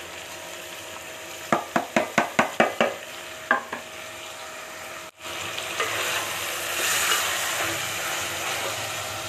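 Chicken karahi frying in a pot as chopped tomatoes are stirred in. About two seconds in comes a quick run of about seven knocks of the spoon on the pot, then one more. After a brief dropout, a steady sizzle of frying with stirring follows, loudest a little past the middle.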